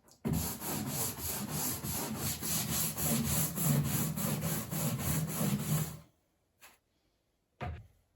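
Rapid back-and-forth scrubbing strokes on a hard surface, about four or five a second, stopping abruptly about six seconds in.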